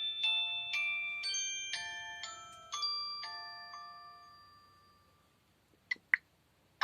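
Preloaded polyphonic ringtone playing from a Samsung Delphi mobile phone's speaker: a bell-like chime melody, about two notes a second, whose last notes ring on and fade away about five seconds in. Two short clicks follow near the end.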